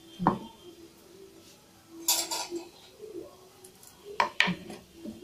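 Kitchen utensils clinking and scraping: a knock just after the start, a short clatter about two seconds in, and two sharp clicks past four seconds.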